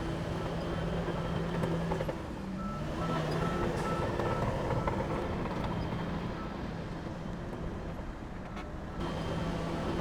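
Heavy construction machine's diesel engine running steadily, with a brief run of short, evenly spaced high-pitched pips near the middle.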